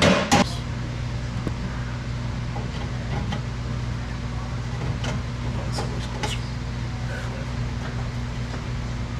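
Sharp metal clanks of steel exhaust pipe sections being knocked and fitted into place right at the start, then a few lighter knocks, over a steady mechanical hum.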